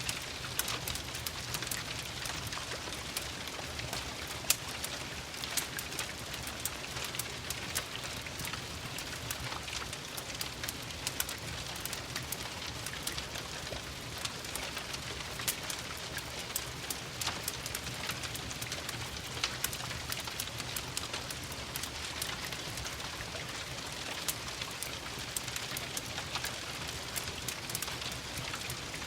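Steady rain falling, mixed with a crackling wood fire whose sharp pops are scattered throughout; the loudest pop comes about four and a half seconds in.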